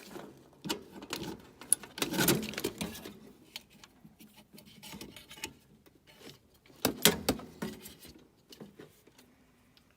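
Hand tools and small metal parts being handled: scattered clicks, taps and rattles, with clusters about two seconds in and around seven seconds in.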